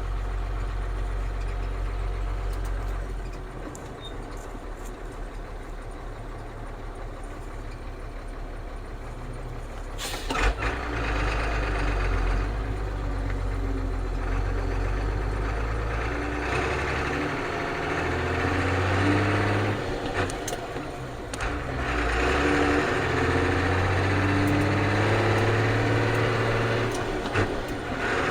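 Ford CF7000 truck's 6.6-litre Brazil diesel running on the road, its engine pitch stepping up and down as it works through the gears. A sharp click comes about ten seconds in.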